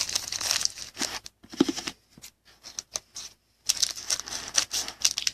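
Trading cards and their packaging being handled and flipped through: short bursts of rustling and crinkling, thinning out about two seconds in and picking up again near the end.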